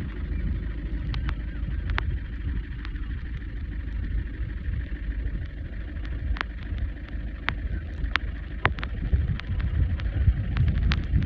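Wind buffeting the microphone as a steady low rumble, with scattered faint sharp ticks over it.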